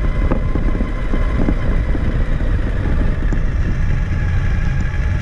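Traxxas Summit 1/10-scale electric RC truck driving, heard from a camera mounted on it: a heavy rumble of the chassis and tyres over rough ground with scattered small knocks, and a faint thin whine from the electric motor and gears.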